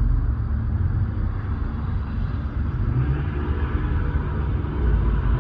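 Steady low rumble with a fainter hiss above it and no distinct events.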